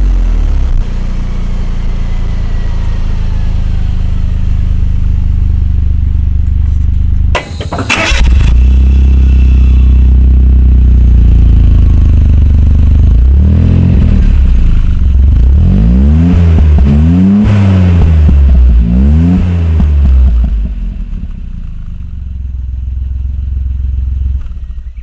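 Suzuki Jimny JA11's small three-cylinder turbo engine running through an HKS Silent Hi-Power cat-back exhaust, mostly at a steady idle. About seven seconds in there is a brief drop and a short burst of noise. Later it is blipped about five times, each rev rising and falling, then settles back to a quieter idle.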